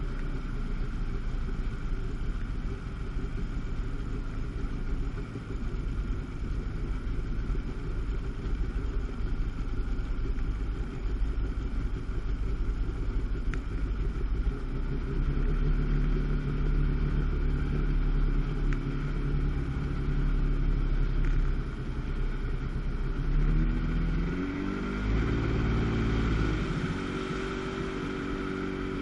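Jet ski engine, a 1997 Sea-Doo GTS's 720 two-stroke twin, running under way with a steady drone. Its pitch shifts up and down a few times near the end as the throttle changes, then settles.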